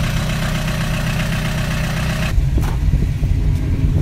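Car engine idling with a steady low rumble. A little over two seconds in, the sound changes abruptly to a deeper, louder rumble without the hiss.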